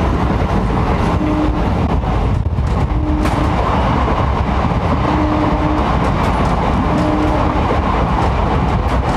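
Bangaon EMU suburban local train running at speed, heard from the coach doorway: the steady loud rumble and rattle of the coach and its wheels on the rails. A short low hum recurs about every two seconds.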